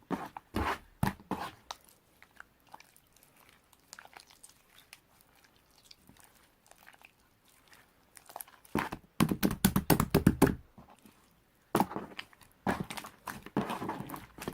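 Marbled slime being squished and poked by hand, making clusters of crackling, popping clicks; it goes quiet for several seconds in the middle, then the loudest burst of crackling comes about two thirds through, followed by more.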